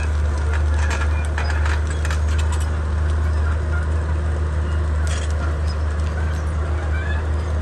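Komatsu D31P bulldozer's diesel engine running with a steady low rumble, with clanking and clicks from the tracks and blade, most of them in the first few seconds and again about five seconds in.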